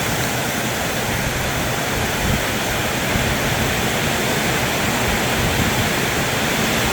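Heavy storm rain drumming steadily and deafeningly on a metal roof, driven by strong wind.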